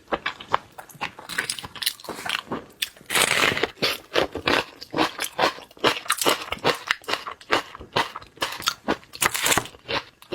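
Close-miked eating of seafood: rapid crisp crunches and clicks of biting, with wet chewing and mouth sounds.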